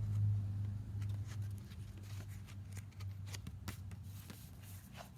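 Pages of a paper manual being turned and handled: a string of light rustles and crinkles, busiest in the second half, over a steady low hum.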